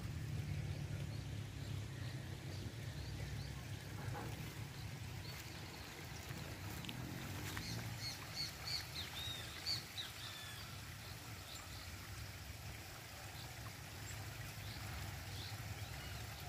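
Small birds chirping in short, high calls, most of them together in the middle, over a steady low outdoor rumble.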